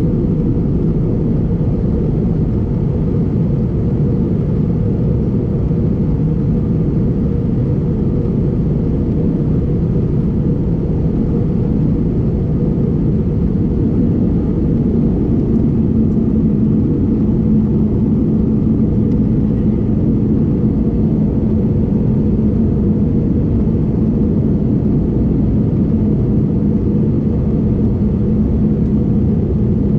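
Steady low rumble of an Airbus A320neo's engines and airflow heard inside the cabin in flight, with a steady hum joining about halfway through.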